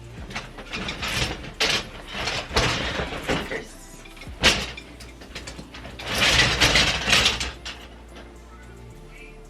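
Household items being handled and moved about: irregular scraping and rustling, a sharp knock about four and a half seconds in, and a louder burst of clattering about six seconds in, over quiet background music.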